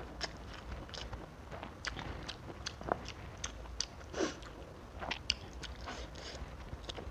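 Close-miked chewing and biting of a fried tilapia and rice meal eaten by hand, with irregular crunches and wet mouth clicks.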